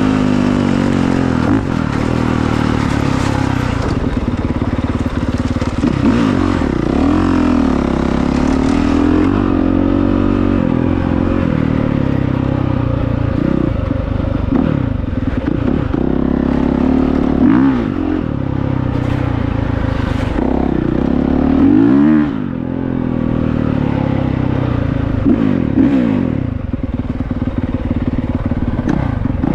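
Honda CRF450R dirt bike's single-cylinder four-stroke engine running under load, its pitch climbing and dropping over and over as the throttle is opened and closed.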